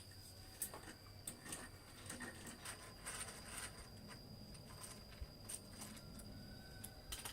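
Faint scattered clicks and rustles of something being handled, over a steady high-pitched insect drone.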